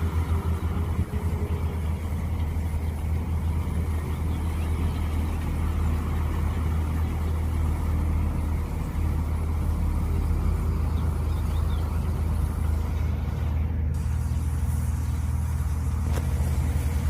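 Mini excavator engine running steadily, a constant low drone.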